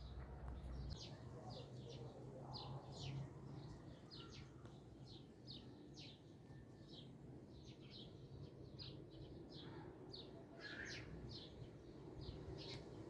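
Faint bird chirping: short, high, falling chirps repeated about two or three times a second, over a low, steady background.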